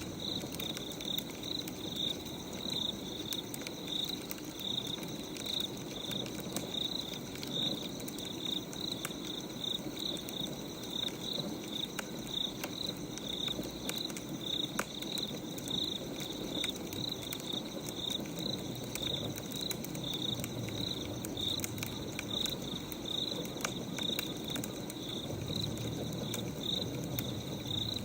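Wood fire crackling with scattered small pops, under steady cricket chirping at about two chirps a second.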